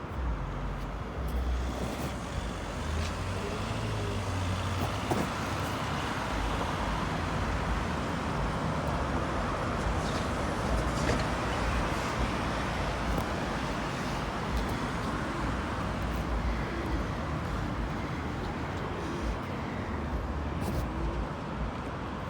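Road traffic on a street: steady engine and tyre noise, swelling as a vehicle passes about halfway through.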